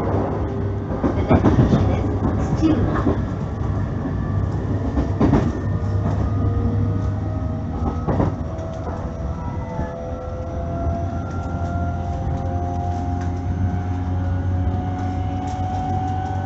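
JR East E531 series electric train running: a steady low rumble of wheels on rail with a motor whine that climbs slowly in pitch as the train gathers speed. A few sharp clicks of wheels over rail joints come in the first half.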